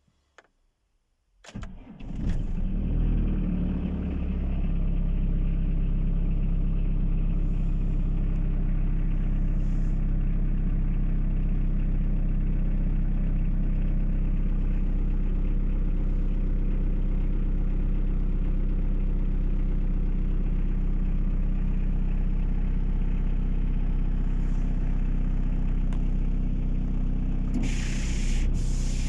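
Hyundai Starex 2.5 TCI four-cylinder turbo-diesel on a cold start: it cranks briefly about a second and a half in, catches and runs up, then settles within a few seconds into a steady idle. A short hiss sounds near the end.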